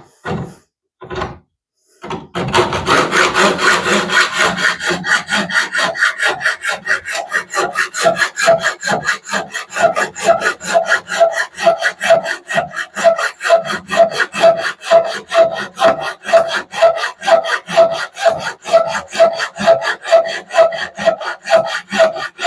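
Hacksaw cutting through the protruding end of a too-long steel bolt, with steady back-and-forth strokes at about two a second and a ringing tone from the blade on the metal. It starts about two seconds in, after a couple of short knocks.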